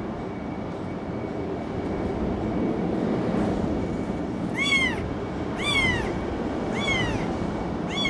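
A kitten meowing: four short, high mews about a second apart, starting a little past halfway, each rising then falling in pitch. A steady low rumble runs underneath.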